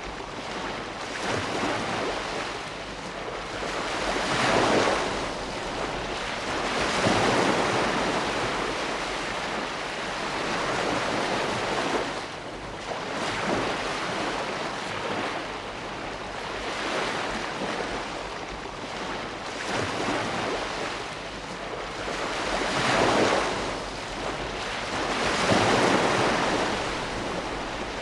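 Ocean waves breaking and washing ashore in an unbroken hiss of surf, swelling louder with each wave every few seconds.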